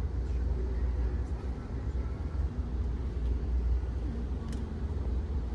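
Steady low rumble heard inside an Amtrak Auto Train passenger car, with a faint click about four and a half seconds in.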